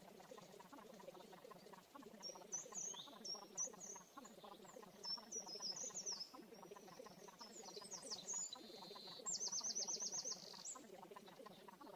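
Birds chirping in short high calls, with a fast trill of about eight notes a second about nine seconds in, over a constant dense low background.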